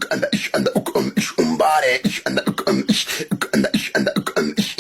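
Vocal music: a fast, beatbox-style mouth beat under a man's sung line, from a looping Portuguese-language meme song.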